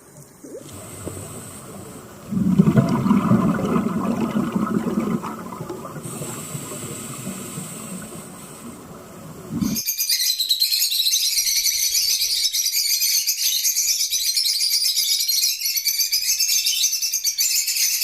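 Two different animal clips. First, a rough, low-pitched animal sound, loudest for a few seconds near the start. Then, after a sudden cut about ten seconds in, a dense, steady chorus of high-pitched chirping.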